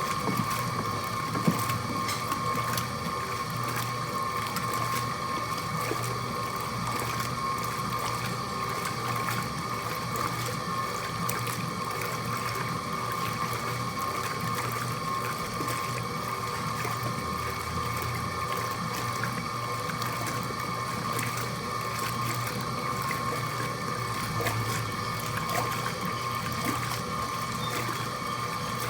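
Mueller Plus washing machine running through its wash, water churning in the tub over a steady motor hum and a constant whine.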